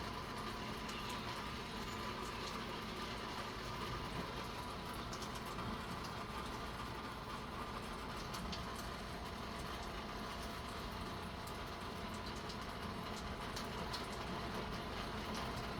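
Steady hiss of light rain falling, with faint scattered drips.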